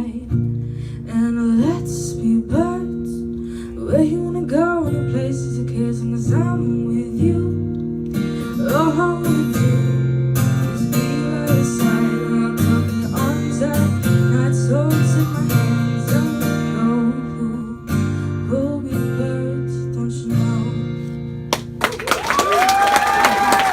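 Acoustic guitar played to close a song, with a voice singing along without words. Near the end the song stops and audience applause and a cheer break out.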